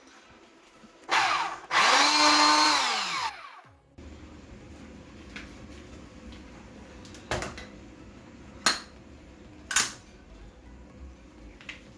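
Hilti TE 70 ATC rotary hammer run in two short bursts about a second in, the second lasting about a second and a half before the motor winds down with falling pitch. A few sharp knocks follow later.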